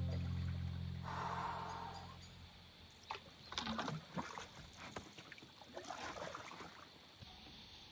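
Background music fading out, then faint canoe paddle strokes: water splashing and dripping off the paddle in a few uneven clusters.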